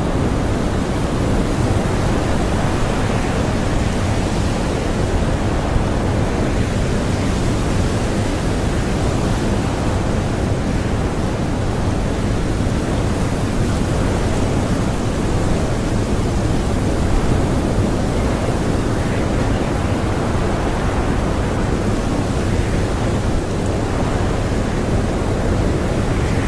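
Blizzard wind blowing steadily: a dense, even rush strongest in the low end, with no whistling tones.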